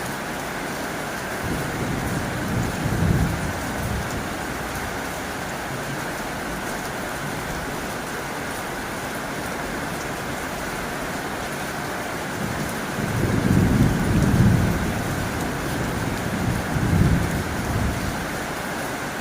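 Heavy rain falling steadily on a tin roof, with a low rumble swelling up about two seconds in and a longer, stronger one from about twelve seconds in.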